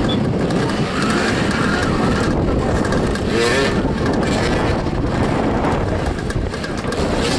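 Several motoball motorcycles running and revving together during play, their engine pitch rising and falling in short glides over a steady dense engine din.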